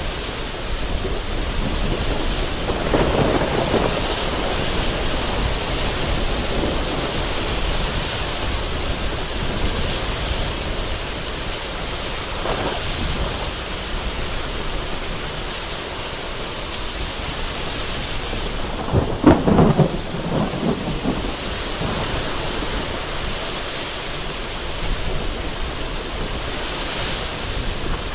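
Heavy rain falling steadily with gusty wind and low rolls of thunder, and one sharp, loud thunderclap about two-thirds of the way through.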